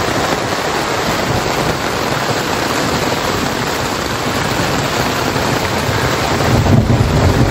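Heavy downpour drumming steadily on the fabric of a Snow Peak Living Shell Long Pro tent, heard from inside. A deep thunder rumble swells in near the end.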